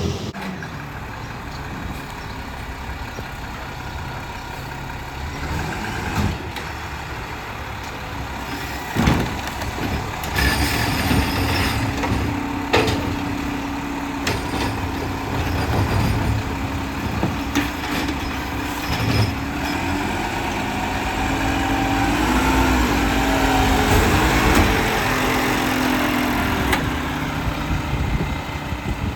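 Garbage truck engine running, with a steady whine that sets in about a third of the way through and a few loud clunks.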